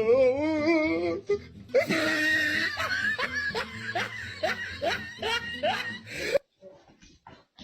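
A person laughing hard: a long wavering cry, then a fast run of short laughs about three a second that cuts off suddenly about six seconds in.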